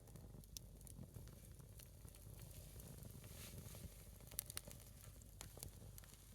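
A single piece of firewood burning in a small outdoor fire, crackling faintly with scattered sharp pops over a soft hiss.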